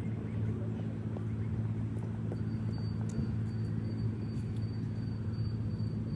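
A motor running with a steady low hum. A faint high whine joins about two seconds in.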